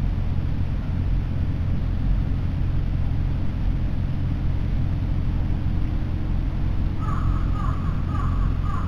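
Steady low outdoor rumble. About two seconds before the end, a bird starts calling: a quick run of short, falling notes, about two a second.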